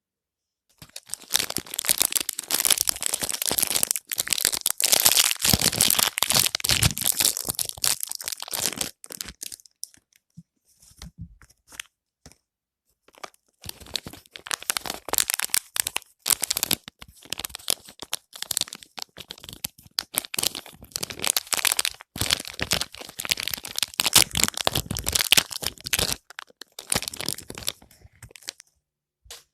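Soap wrapping being torn open and crinkled by hand: a long stretch of dense crinkling and tearing, a few seconds of sparser handling about ten seconds in, then a second long stretch of crinkling that thins out near the end.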